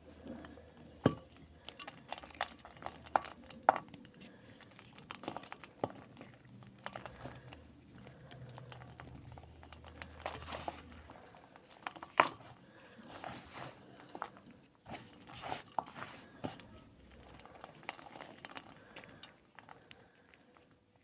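Black gym chalk ball being crushed and squeezed, giving irregular crunchy crackles and snaps, with the sharpest ones about a second in, near four seconds and around twelve seconds.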